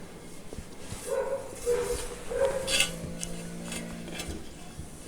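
A dog barking: three short barks close together, starting about a second in.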